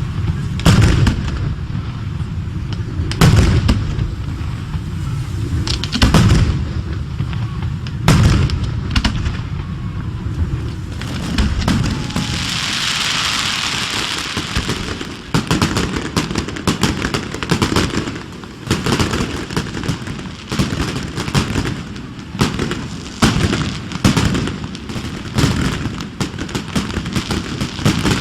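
Fireworks display: aerial shells bursting with deep booms every two to three seconds, then a hissing crackle in the middle, followed by a fast, dense run of bangs in the second half.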